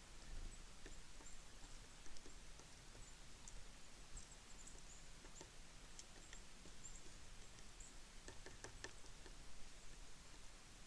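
Small birds at a feeder: faint, brief high chirps and scattered light ticks and taps, with a cluster of sharper taps about eight to nine seconds in.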